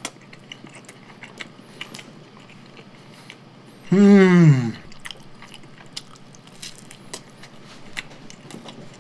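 Close-up mouth sounds of a person chewing soft kaya toast with cheese dipped in soft-boiled egg and soy sauce: many small wet clicks and smacks. About four seconds in comes one loud, falling "mmm" hum through a full mouth.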